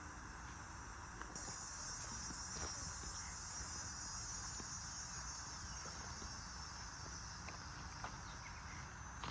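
Insects, crickets or similar, trilling in a steady high-pitched chorus that sets in about a second in, over a low steady rumble.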